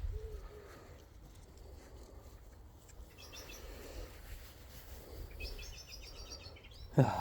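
A small bird calling in runs of quick, repeated high chirps: a short run about three seconds in and a longer one of over a second near the end, over a steady low rumble.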